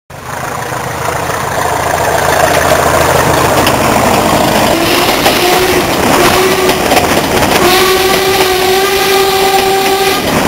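English Electric Class 40 diesel locomotive working under power, its engine running loud and steady, with the loco's horn sounded in a few short blasts about halfway through and then one long blast held for over two seconds near the end.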